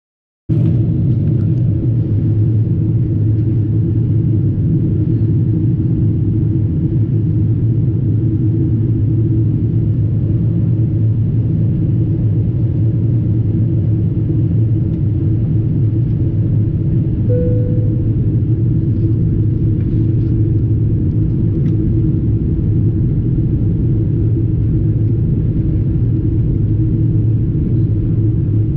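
Boat engine running at a steady speed, a constant low rumble that starts about half a second in.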